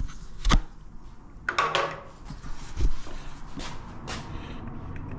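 Plastic waste pipe and fittings being handled: a few short knocks and clacks, with a brief scraping rustle about a second and a half in.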